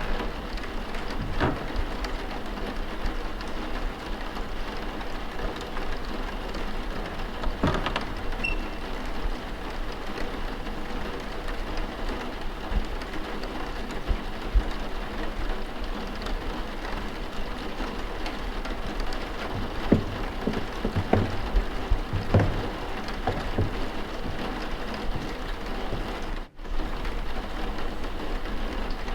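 Steady rain falling, with scattered short knocks and pops, a cluster of them past the middle. The sound drops out for a split second near the end.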